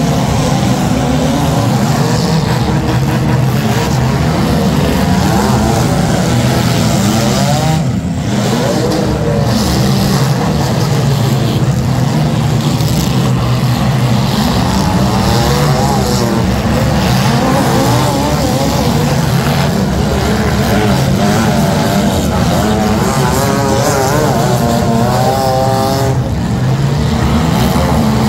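Several compact demolition derby cars' engines revving hard at once, their pitch climbing and falling again and again over a loud, continuous din.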